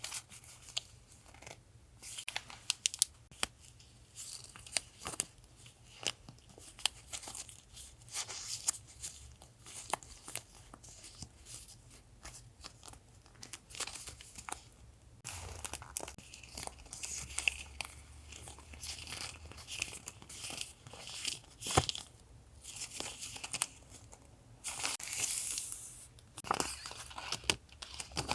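Paper and plastic packaging of stickers and paper goods rustling and crinkling as they are handled and unwrapped, with irregular soft taps and clicks. A sharp click comes a little past the middle, and a longer, louder crinkle near the end.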